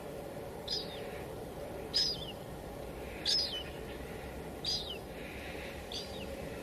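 Steady hiss of light drizzle, with a bird calling five times, a short high chirp falling at the end, repeated about every second and a quarter.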